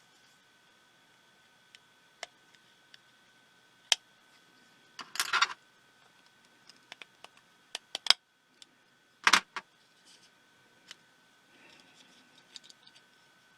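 Small plastic and metal parts of a pico projector being handled and pried apart during disassembly. Scattered light clicks and taps, a short rattling clatter about five seconds in, a single sharp click about nine seconds in, and a soft rustle near the end.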